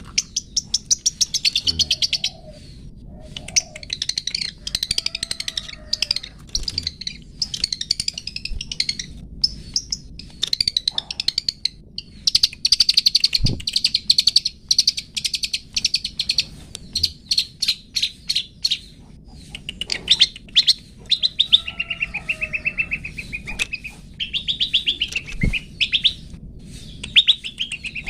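Long-tailed shrike (cendet) singing: bursts of rapid, high chattering notes, some harsh and trilled, broken by short pauses.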